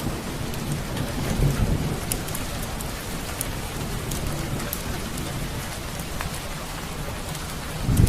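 Steady rain with a low rumble of thunder that swells near the end, and scattered small crackles of a wood fire in a fireplace.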